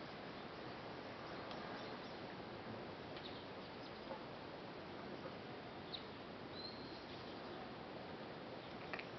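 Steady, faint outdoor background hiss with a few brief, high bird chirps, and a small click near the end.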